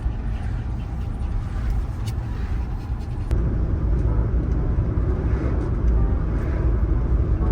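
Steady low rumble of a moving vehicle, engine and road noise, growing louder about three seconds in.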